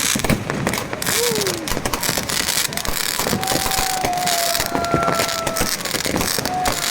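Fireworks going off all around: a dense run of bangs and crackles, with a short falling whistle about a second in and a long, steady whistling tone from about three seconds in.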